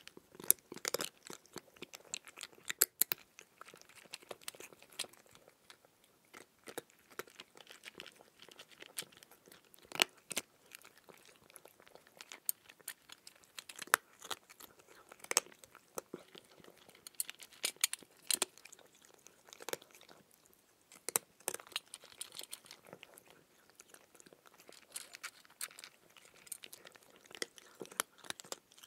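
A person biting into and chewing raw cucumber: irregular crisp crunches, with a few sharp, louder bites among the softer chewing.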